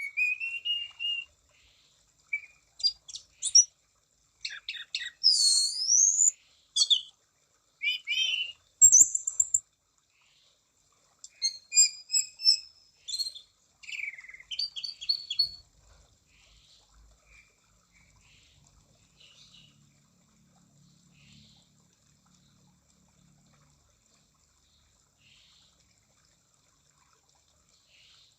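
Orange-banded thrush (anis cendana) singing a lively, varied song of whistled phrases, pitch glides and quick note clusters in frequent bursts, then only faint, scattered notes from about halfway on.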